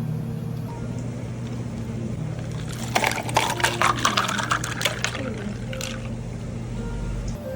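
Liquid being poured and splashing for about two seconds, starting about three seconds in, over a steady low hum.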